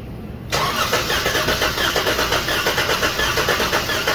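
Starter cranking the 2014 Chrysler 300's 3.6-litre V6 for a compression test, starting suddenly about half a second in with an even pulsing of about three to four beats a second. The engine turns over without starting while the gauge reads the compression of the second cylinder.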